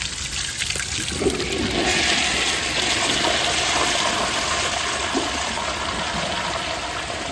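Proflo Jerritt toilet flushing from an overfilled mid-height tank: a click about a second in, then a rush of water that swells within a second and slowly tapers off, with some bubbling as the water rushes into the pipes.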